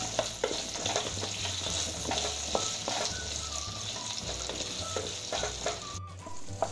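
Diced potatoes sizzling in hot oil in a nonstick kadhai while a wooden spatula stirs them, with frequent short scrapes and taps of the spatula against the pan over the steady sizzle.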